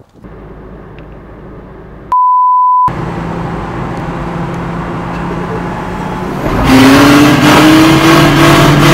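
A short, steady single-tone censor bleep, then a car driving along with engine and road noise. A few seconds later the engine gets much louder, its note rising slowly as the car accelerates.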